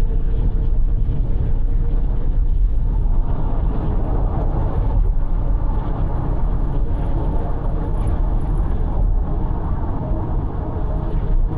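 A car cruising on an expressway: steady road and tyre noise with a low engine hum.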